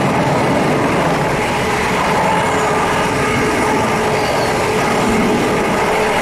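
A train running past with a steady, loud rumble of wheels and running gear.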